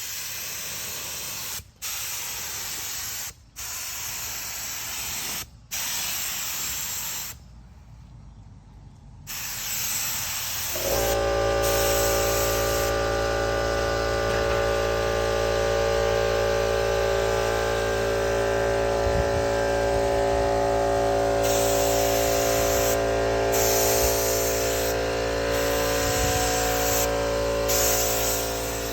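Paint spraying onto a custom motorcycle gas tank: a hiss in runs of a second or two, broken by short pauses. About eleven seconds in, a steady machine hum with several fixed tones starts and runs on under the stop-start spraying.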